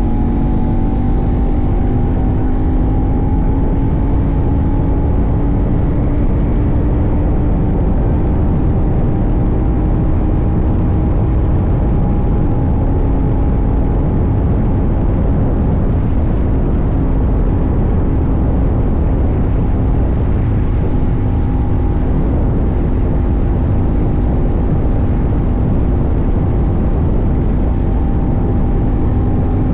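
CFMoto 800NK's 799 cc parallel-twin engine running at a steady cruise, its pitch edging up slightly at first and then holding nearly level, under a loud rush of wind and road noise on a tank-mounted microphone.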